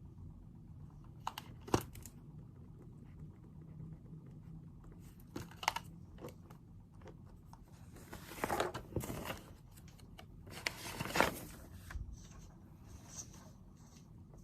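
Paper being handled at a desk: a few small clicks, then two longer rustling, tearing sounds about eight and eleven seconds in.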